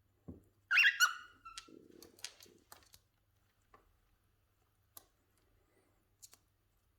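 Cockatiels squawking: a loud, harsh call about a second in, then softer scattered calls and sharp clicks and taps that trail off, as two birds squabble over food.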